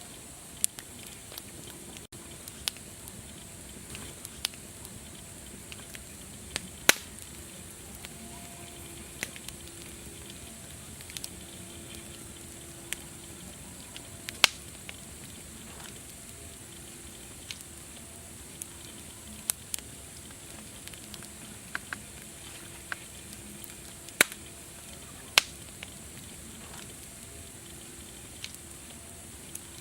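Wood fire crackling: a steady hiss with sharp pops scattered irregularly, about one a second, and a few much louder snaps.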